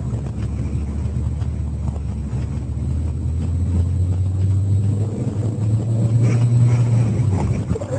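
Car engine and road noise heard from inside the cabin while driving: a steady low hum that rises in pitch a little past halfway as the car speeds up, then eases off near the end.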